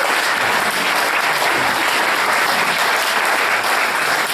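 Audience applauding, a steady clapping that goes on without a break.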